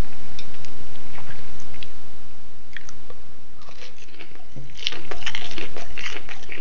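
A person chewing a crunchy piece of tempura-battered, deep-fried bitter melon: scattered crunches at first, growing denser and louder about five seconds in.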